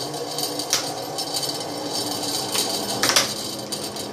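Electrolux 12 kg washing machine running in its spin cycle with a steady mechanical noise, a strange noise that the machine should not be making. Sharp metallic clicks and a clank about three seconds in come from a spring of the top assembly being worked loose.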